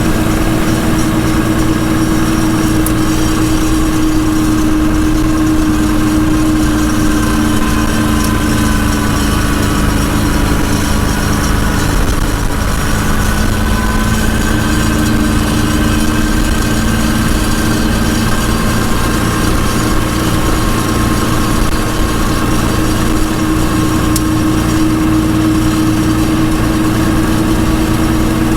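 Tractor engine running steadily under load, with a small dip and rise in pitch about halfway through.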